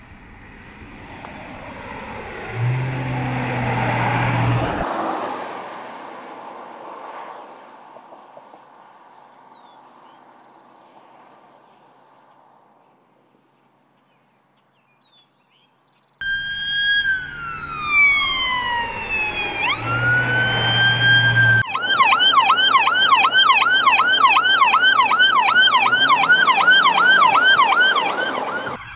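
A vehicle passes, with a low steady tone for a couple of seconds, and fades away. About sixteen seconds in, a police car's electronic siren starts suddenly: a long falling wail that sweeps back up alongside a low horn-like blast, then a fast yelp of about three rising-and-falling cycles a second.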